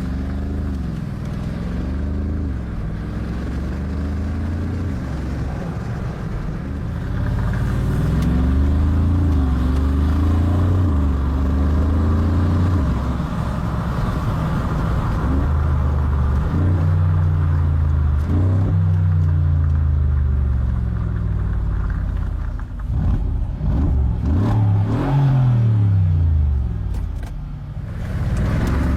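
2013 Mercedes-AMG G63's 5.5-litre twin-turbo V8 under hard throttle, its pitch climbing and dropping again and again as it accelerates and shifts. Near the end it gives several quick revs in a row.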